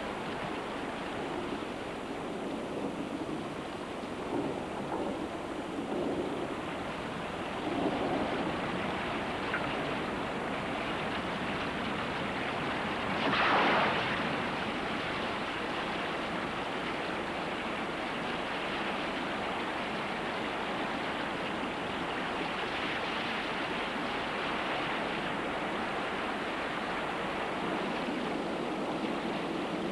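River floodwater rushing, a steady noise with a brief louder surge about halfway through: the flood from upstream storms coming down a dry riverbed.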